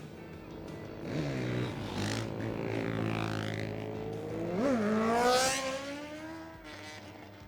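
Superbike engines running at high revs. A quick rev rises and falls about a second in, and a sharper one comes near five seconds. Then a bike passes, loudest just after five seconds, with its pitch falling away as it fades.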